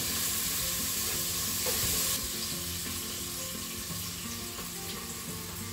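Onions frying in the sauté-mode pot of a Crockpot Express pressure cooker: a steady sizzle, a little louder for the first two seconds, with a silicone spatula stirring them.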